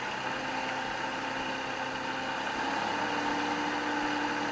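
Kubota L3560 tractor's diesel engine running steadily, its pitch stepping up slightly a little under three seconds in as the engine speed rises.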